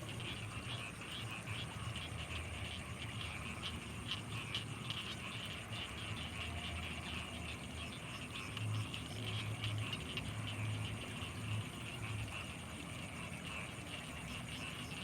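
Night chorus of frogs and insects over rice fields: a dense, rapid chirring chorus with a thin, steady high insect tone above it. Low pulsing calls rise briefly a little past the middle.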